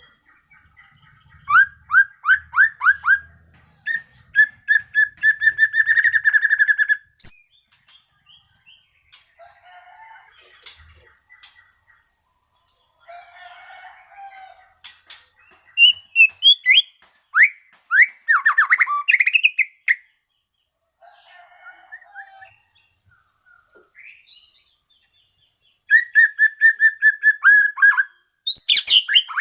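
White-rumped shama (murai batu, Medan type) singing: varied phrases of rapid repeated downslurred whistles and trills, broken by short pauses. The loudest bursts come near the start and again near the end.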